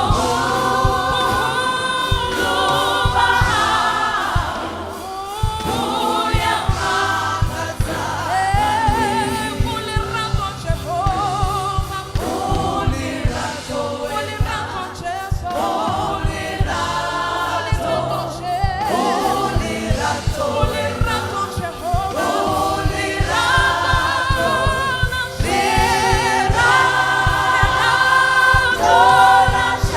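Gospel choir singing a worship song with instrumental backing and a steady beat.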